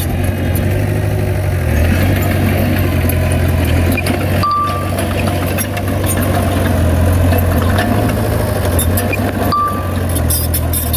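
Heavy diesel earthmoving machinery running steadily with a low drone and scattered clanks. Two short high beeps sound about five seconds apart, near the middle and near the end.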